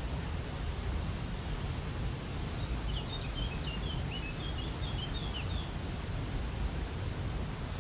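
Steady rushing noise of a waterfall. From about two and a half to five and a half seconds in, a bird gives a quick series of high chirps over it.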